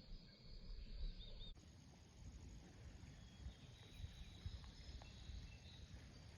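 Near silence: faint outdoor ambience with a low rumble and a few faint, short high chirps.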